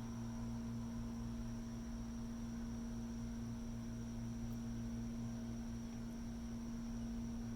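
Steady low machine hum that does not change, with a faint, even high-pitched tone above it.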